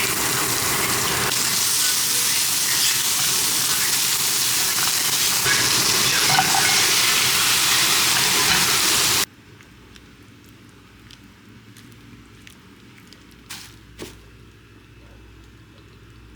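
Food sizzling in a hot frying pan, a loud, even hiss that cuts off abruptly about nine seconds in. After that comes a quiet room with a couple of faint knocks.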